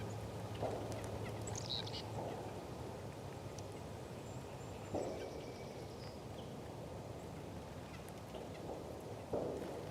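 Small songbirds at a feeder: a few short high chirps and whistled calls, and several brief rustling bursts, over a steady low hum.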